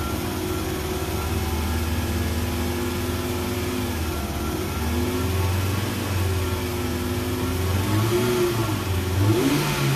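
Kia Rio engine running at a raised speed, heard from inside the cabin: a steady note whose pitch rises and falls a few times near the end, as with blips of the throttle. The engine has low compression from worn piston rings and cylinder walls, and has just been treated with a XADO additive; the speaker says it vibrated at 2,000 rpm.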